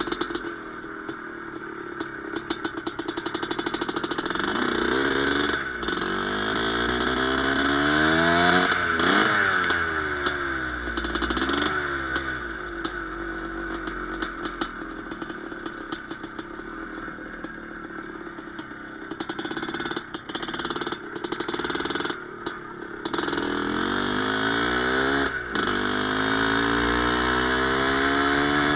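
Izh Planeta Sport single-cylinder two-stroke motorcycle engine running and being revved. The pitch climbs and falls twice, with a steadier stretch in between, and the sound briefly cuts out a few times.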